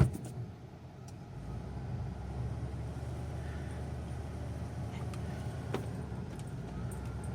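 Engine of a mid-1980s Ford RV running as heard from inside the cab. Its low rumble builds about a second in as the RV gets under way, then holds steady. There is a sharp click at the start and another about six seconds in.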